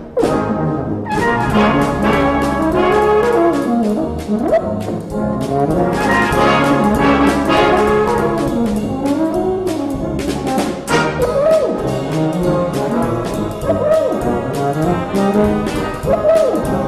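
A euphonium soloist playing a lively novelty solo with quick pitch slides and runs over a full brass band's rhythmic accompaniment.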